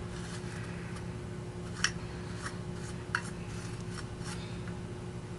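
A few light, sharp ticks and scrapes of small metal tools and wire being handled during soldering work, over a steady low hum.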